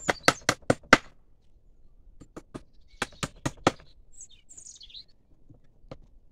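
Quick hammer blows during a fence repair: a run of about five in the first second, two more, another fast run of five, then a single blow near the end. A bird chirps briefly in the gap.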